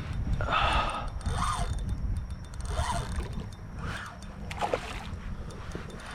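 Water splashing and sloshing against a kayak in about five short bursts, over a steady low rumble.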